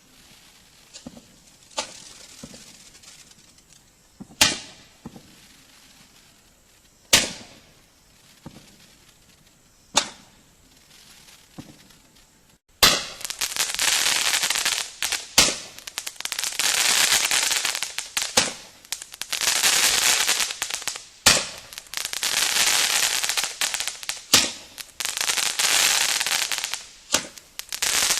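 SFX Cosmic Tails 5-ball Roman candles firing. In the first half there is a sharp pop about every three seconds as each comet shot launches. From about halfway there is a loud, dense crackling hiss in stretches of two to three seconds, broken by further pops.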